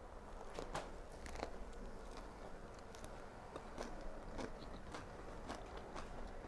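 A person chewing spring rolls close to the microphone: uneven soft crunches and mouth clicks, roughly two a second.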